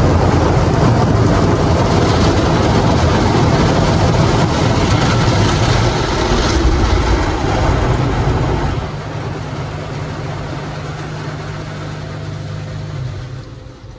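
Car wash equipment running: a loud, steady rushing noise with a low rumble, which drops about nine seconds in to a quieter, steady hum.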